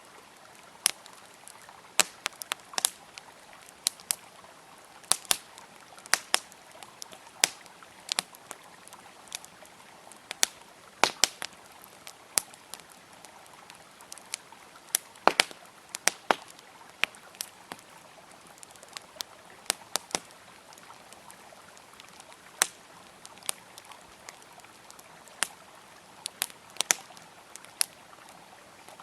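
Wood fire crackling and popping with sharp, irregular snaps, a few much louder than the rest, over the steady rush of a flowing river.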